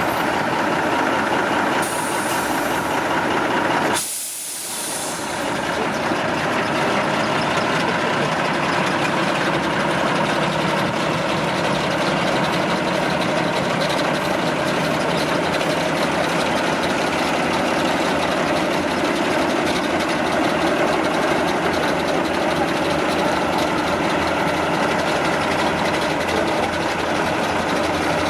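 Heavy off-road truck engine running steadily, with a hiss about two seconds in and a brief dip in level about four seconds in.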